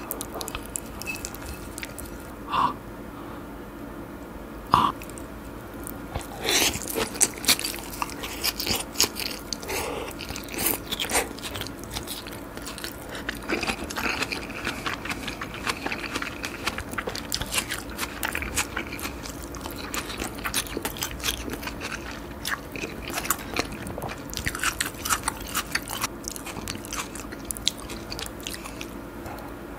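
Close-miked chewing of raw salmon with sliced onion: crunchy bites. There are a couple of single clicks in the first few seconds, then steady crunching from about six seconds in.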